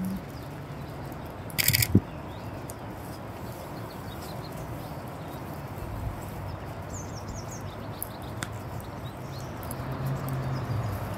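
Small birds chirping faintly and intermittently over a steady outdoor background hiss, with one brief loud crunch about two seconds in.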